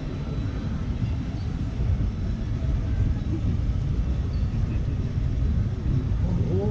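Steady low rumble of a water raft ride under way, with no distinct knocks or strikes.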